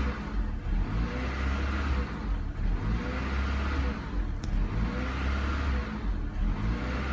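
2001 Honda Accord engine surging at idle: the revs climb and fall back in a regular cycle about every two seconds, hunting up and down on the warm engine. There is one short click about four and a half seconds in.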